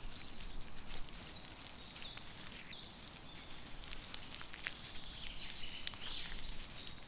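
Outdoor nature ambience: many short, high chirps, each sliding down in pitch, repeating throughout with scattered light clicks over a faint hiss.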